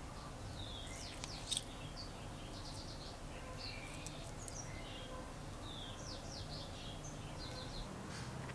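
Small birds chirping in the background in short, quick calls. A low steady hum runs underneath, and two sharp clicks come about a second and a half in and again about four seconds in.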